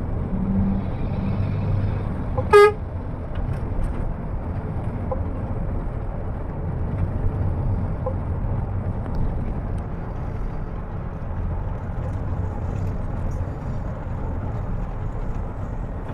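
Steady low rumble of a moving bus's engine and road noise, with one short horn toot about two and a half seconds in.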